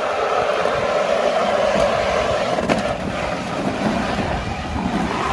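Lawn mower running steadily, with a few faint clicks.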